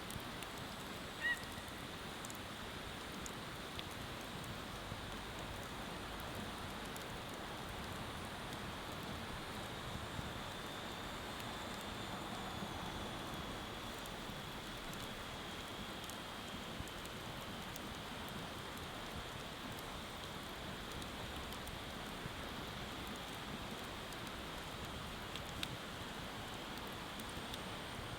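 Bonfire crackling with a few sharp pops over a steady hiss of flowing river water. A short high chirp about a second in.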